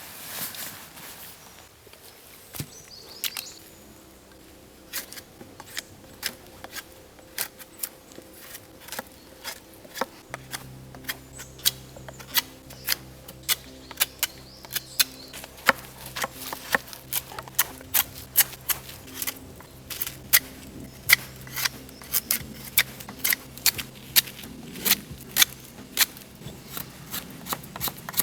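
A series of sharp clicks and knocks, sparse at first and then coming about one or two a second from about ten seconds in, with a faint low hum starting at the same point.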